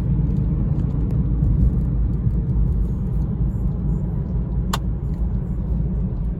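Car driving, heard from inside the cabin: a steady low rumble of engine and road noise. One short click comes about three-quarters of the way through.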